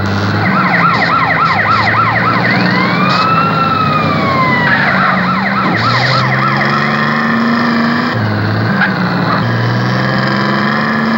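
A siren sounds: a fast repeating up-and-down yelp, then one long slow rise and fall, then the fast yelp again. Under it a vehicle engine runs, its pitch climbing and dropping back several times as if shifting through gears.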